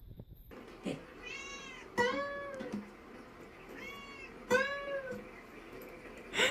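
A cat meowing repeatedly: several drawn-out, arching meows about a second apart, with a short loud sound near the end.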